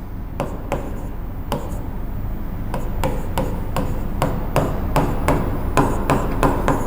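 A series of sharp knocks, a few spread out at first, then about three a second in a fairly even beat.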